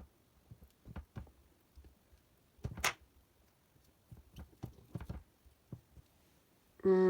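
Light, irregular taps and knocks of rhubarb stalks being handled and set down on a kitchen surface, with one brief rustle about three seconds in. Near the end a woman's voice starts a long, stretched 'rrr'.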